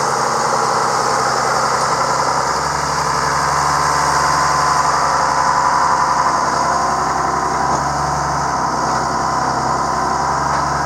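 Vehicle engine running steadily with a continuous hum and a steady whine, somewhat stronger in the low end for a few seconds in the middle.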